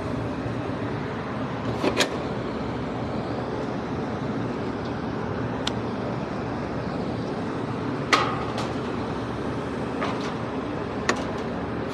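Steady whir of rooftop air-conditioning package units running, broken by a handful of sharp clicks and knocks, the loudest about eight seconds in.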